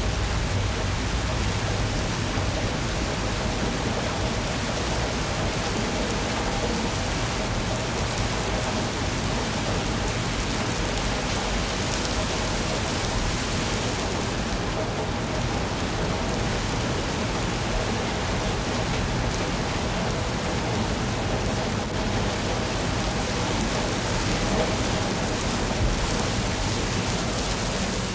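Steady rain falling, an even hiss with no distinct drops or claps standing out.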